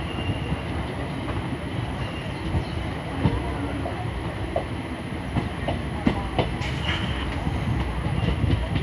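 Passenger train arriving at a station, its coaches rolling past with a steady low rumble and the wheels knocking irregularly over the rail joints.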